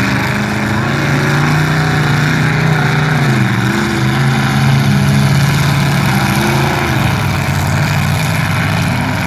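Demolition derby car engines running hard under load as the wrecked cars shove against each other, wheels spinning in the dirt. The engine pitch dips about three and a half seconds in, then rises again.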